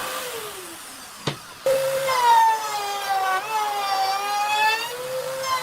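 Electric power tool motor whining at a steady pitch, then slowing and fading out. A sharp click follows, and the motor starts again and sags lower in pitch before climbing back up, the way a motor does when the blade or bit is pushed into wood.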